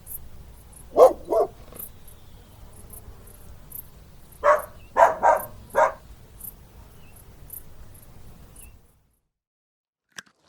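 A dog barking: two quick barks about a second in, then a run of four more a few seconds later. The sound drops away near the end.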